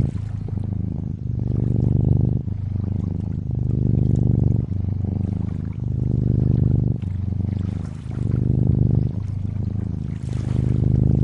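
Cat purring close up, a deep, steady purr that swells and eases about every second as the cat breathes in and out. A faint hiss of lakeside water lies under it.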